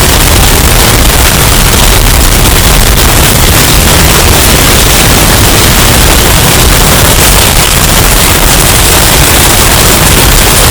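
Hurricane wind sound effect, bass-boosted until it distorts: a steady, very loud wash of noise, heaviest in the deep bass, with no let-up.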